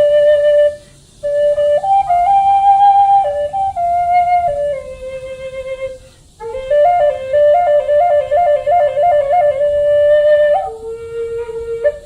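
A flute playing a slow melody of long held notes, with a quick warbling trill between two notes in the second half. The melody breaks off briefly about a second in and again around six seconds in.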